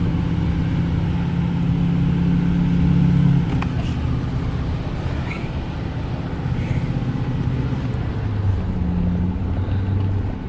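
Car engine and road noise heard from inside the cabin while driving, a steady low hum whose engine note drops about a third of the way through and settles lower near the end.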